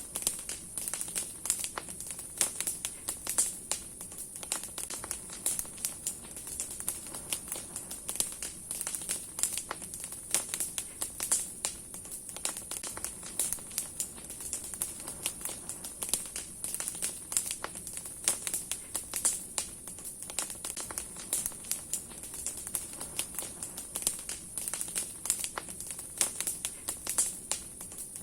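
Large wood bonfire of many branches crackling: dense, irregular snaps and pops over a steady high hiss.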